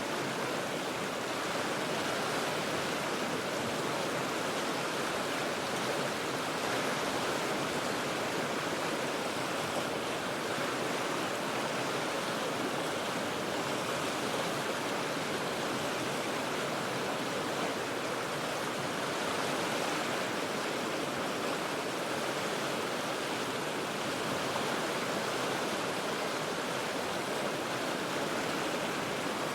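The Cheat River rushing steadily, an even hiss of moving water with no breaks or changes.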